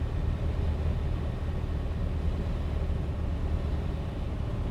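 Piper Dakota's six-cylinder Lycoming O-540 engine and propeller running as a steady low drone inside the cockpit, at reduced power while the plane slows on final approach, with airflow noise over it.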